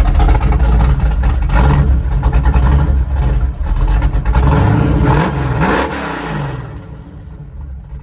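Truck engine running loud just after a startup, revved several times with the pitch sweeping up and down, then settling back to a quieter run near the end.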